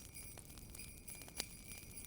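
Wood fire crackling with scattered small pops, one sharper pop a little past halfway, under the faint, steady ringing of jingle bells.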